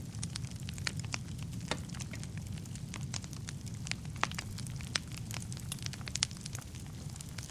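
Wood fire burning in a fireplace: a steady low rumble of flames with frequent irregular crackles and pops, a few louder snaps among them.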